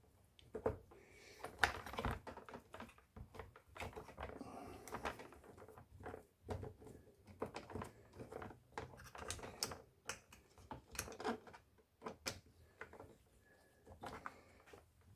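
Irregular clicks, taps and light clatter of a screwdriver and small hand tools against the plastic housing of an electric chainsaw as its Torx cover screws are worked at.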